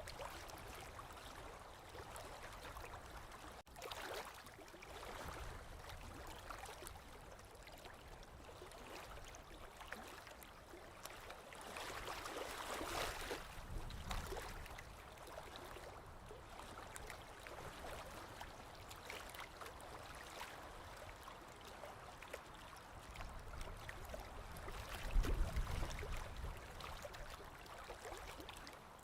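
Small waves lapping against a lake shore: a continuous gentle wash of water that swells and fades. The louder swells come about 4 and 13 seconds in, and the loudest, deepest one about 25 seconds in.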